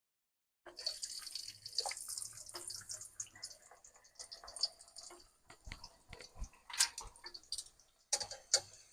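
Hot oil sizzling and crackling as a poori deep-fries, a steady high hiss with many small pops.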